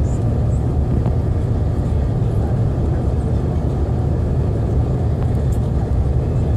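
Steady low rumble of a jet airliner heard from inside the passenger cabin during landing.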